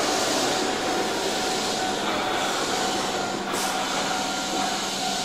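Keihan electric train running through the station, a steady rumble of wheels and running gear with a constant hum underneath. A brief high hiss comes about three and a half seconds in.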